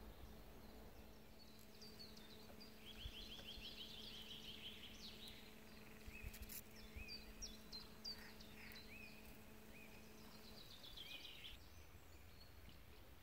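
Faint songbirds singing: rapid repeated trills and short chirps and whistles, overlapping. A faint steady low hum runs beneath and stops about ten and a half seconds in.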